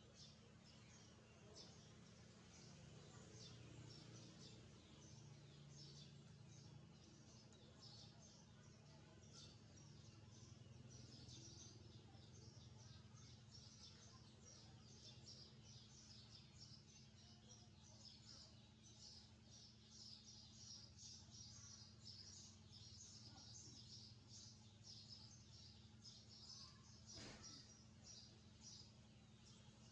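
Young birds chirping faintly, many quick high chirps crowding one another, over a steady low hum. A single click sounds near the end.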